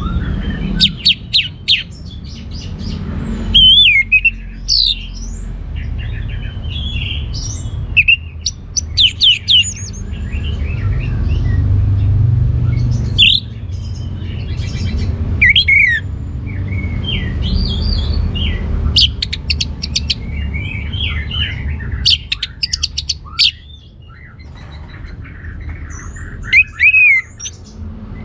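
Orange-headed thrush singing a loud, varied song of short whistled phrases and rapid chattering trills, in bursts with brief pauses, over a steady low rumble.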